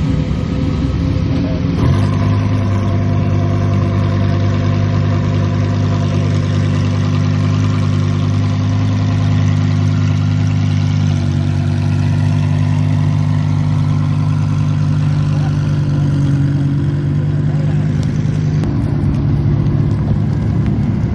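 Car engine running steadily at a held speed, its drone stepping to a new pitch about two seconds in, again midway and again near the end.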